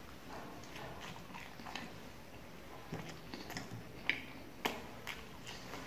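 A person chewing roti and curry close to the microphone: wet mouth clicks and smacks. A few sharper smacks come past the middle.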